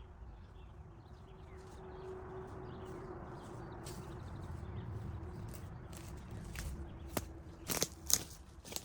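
Outdoor ambience with a steady low rumble, then a few sharp clicks or knocks in the last two seconds.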